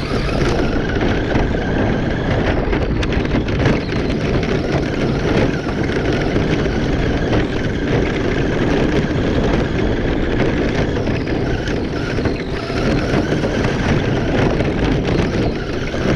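Traxxas Slash RC truck driving on a track: a faint electric-motor whine that rises and falls over a steady rumble of tyres on the ground.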